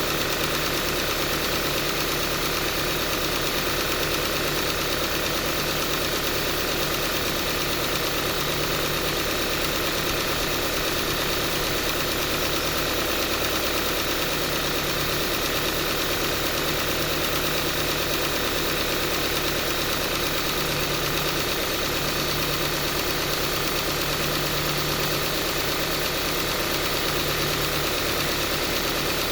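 Subaru Forester's CB18 1.8-litre turbocharged flat-four engine running at idle, with a tappet-like ticking that keeps going and doesn't die away. The abnormal noise has grown worse and the owner takes the engine for finished.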